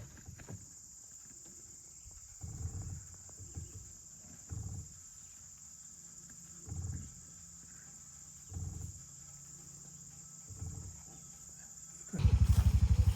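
Steady high-pitched insect drone, like crickets, with a few soft low thumps. About a second before the end, a loud engine with a fast, even pulse cuts in.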